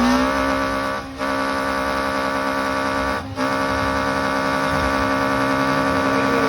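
Drag-racing car's engine revving up, then held at steady high revs, with two brief drops in sound about one and three seconds in.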